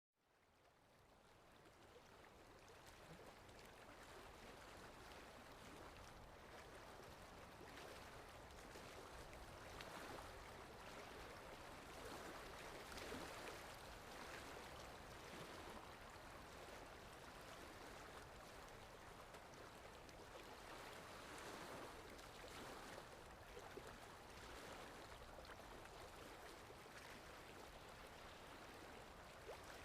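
Sea waves washing on a shore: a soft, continuous rush of water that fades in over the first couple of seconds and swells gently every few seconds.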